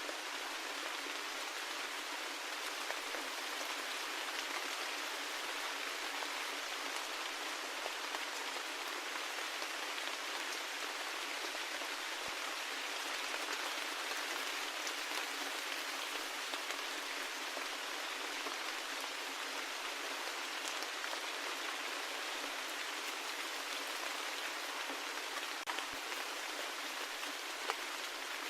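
Steady rain: an even hiss of falling drops, with an occasional sharper drop tick standing out.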